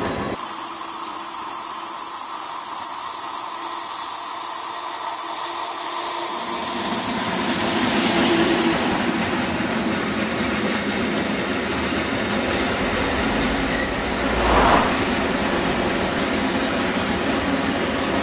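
Train running on the rails: a steady rolling rumble with hiss, swelling briefly a little past the three-quarter mark.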